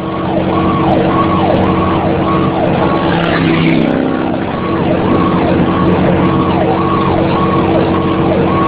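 Fire engine's electronic siren cycling quickly up and down in pitch, over the steady running of the truck's engine.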